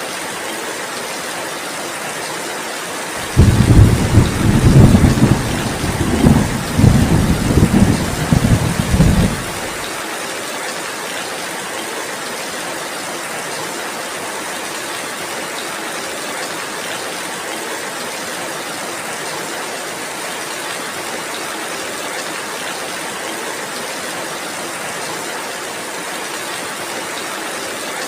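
Steady heavy rain, with a peal of thunder that breaks in suddenly about three seconds in and rumbles low and loud for about six seconds before ending.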